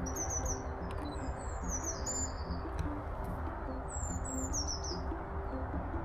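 Songbirds singing: short, high phrases of quickly descending notes, repeated about every two seconds, over a steady low rumble of outdoor background noise.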